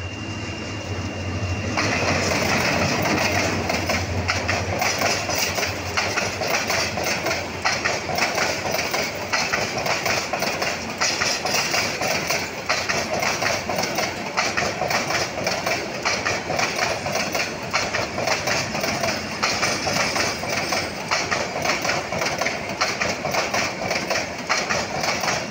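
Bangladesh Railway intercity train passing close by. The diesel locomotive's low engine drone fades within the first few seconds, then the steady rush of the passing coaches with a rapid clatter of wheels over the rail joints.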